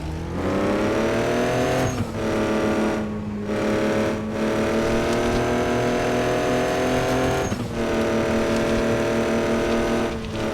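A truck engine pulling under acceleration. Its pitch rises, then levels out, and the sound is broken by several brief dips.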